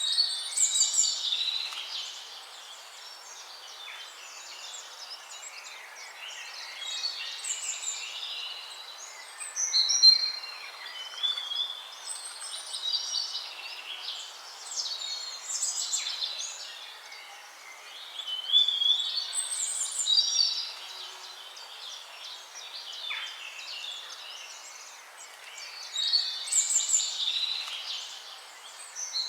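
Songbirds singing: high, warbling phrases of a few seconds each come every few seconds over a steady background hiss.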